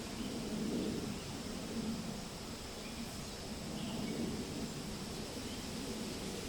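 Wind rustling through forest leaves in gentle swells, with a few faint bird chirps.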